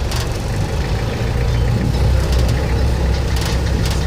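Safari jeep engine running steadily with a low hum that grows louder about a second in.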